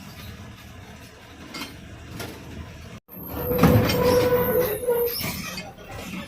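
Bus driving along, with the rumble and rattle of the ride. After an abrupt cut about three seconds in, the noise gets louder and more clattering, and a steady tone sounds for about a second and a half.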